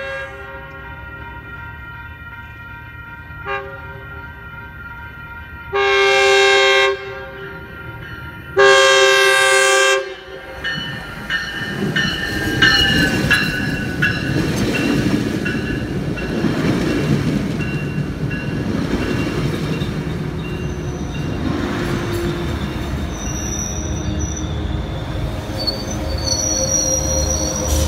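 Metrolink commuter train's horn sounding two long blasts, then the train rolling past with a steady rumble of wheels on rail. A high-pitched wheel squeal comes in near the end.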